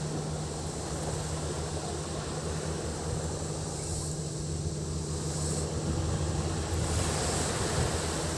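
Surf washing on the shore under a steady low engine hum, with cicadas buzzing high in the background.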